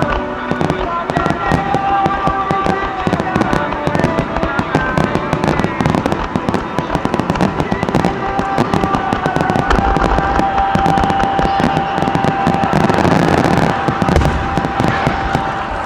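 Fireworks display: shells bursting with dense, rapid crackling and popping throughout.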